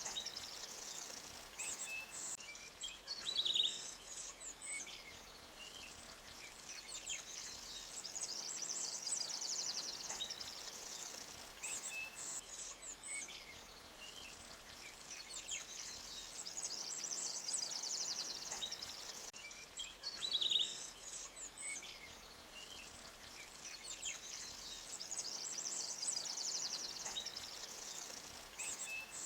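Forest ambience: small birds chirping, with a high, fast trill that comes back roughly every eight seconds, over the faint, steady rush of a stream.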